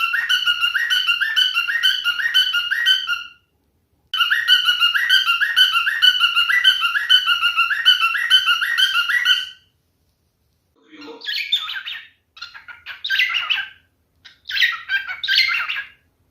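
Pied cockatiel whistling one short rising note over and over, about two to three a second, in two runs with a short break between. From about eleven seconds in come four harsh, scratchy bursts of chatter.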